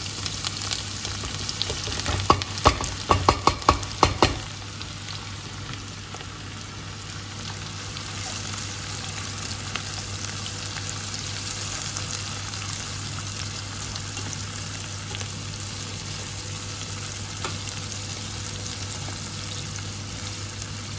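Onions frying in pork fat in a frying pan, a steady sizzle. About two seconds in, a quick run of sharp knocks lasts about two seconds.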